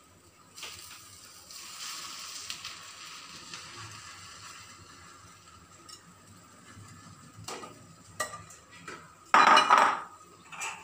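Bread slice frying in oil on a flat iron tawa, with a soft sizzle through the first half. Then a spoon clinks and scrapes against the dishes as topping is spooned onto the bread, with one loud scrape-and-clatter near the end.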